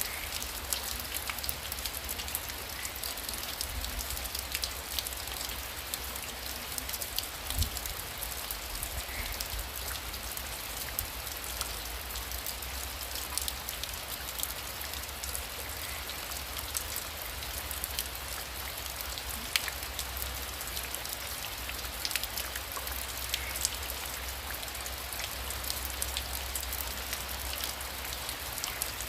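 Heavy rain falling steadily: a dense, even hiss full of sharp drop ticks, over a steady low rumble.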